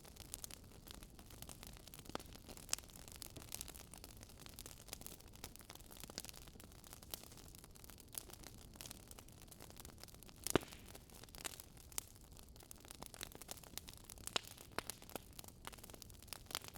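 Wood fire crackling faintly: irregular sharp pops and snaps over a soft steady hiss, with one louder pop about ten seconds in.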